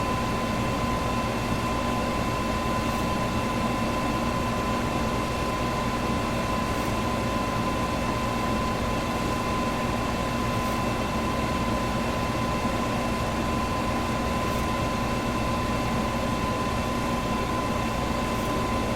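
Electric fan running steadily: an even rush of air with a steady hum and a thin whine from the motor. A faint tick recurs about every four seconds.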